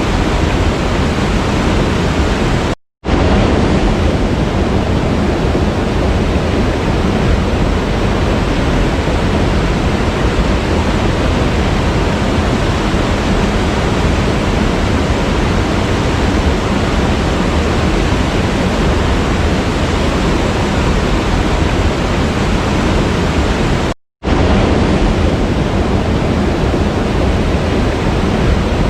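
Waterfall water rushing in a steady, dense roar, cut by two brief gaps of silence, about three seconds in and again near the end.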